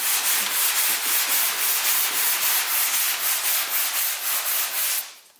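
Sandpaper rubbed back and forth by hand over a car's steel body panel, sanding down body filler, in quick, even strokes that stop about five seconds in.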